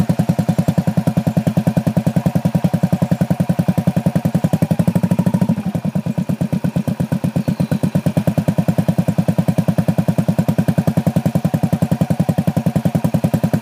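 Small motorcycle engine idling with an even, rapid firing beat, just after being started. Its speed creeps up slightly, then dips back about five and a half seconds in.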